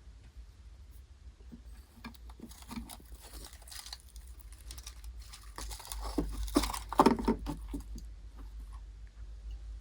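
Rustling, light knocks and clinks of objects being handled and moved, busiest and loudest about six to seven and a half seconds in.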